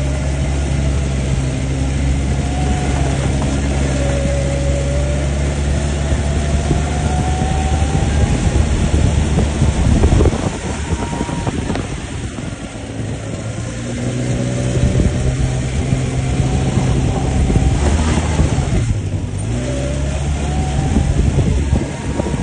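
ATV engine running under way, its revs drifting up and down; it eases off about ten seconds in, then picks up again, with a short dip near the end.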